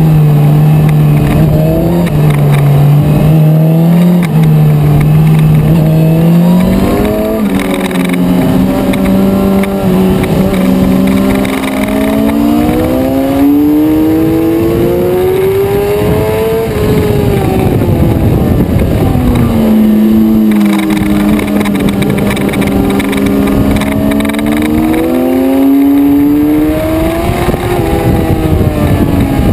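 A Suzuki sport bike's engine heard on board while riding on a track. The engine note climbs and falls several times as the rider accelerates and slows, with a long climb to about halfway through, a fall, another climb and a fall near the end.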